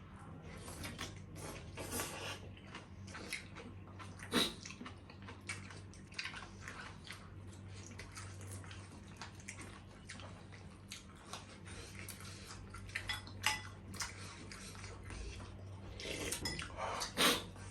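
Eating at a table: cutlery clinking on plates and wet chewing, heard as a string of short clicks and smacks. A steady low hum runs underneath.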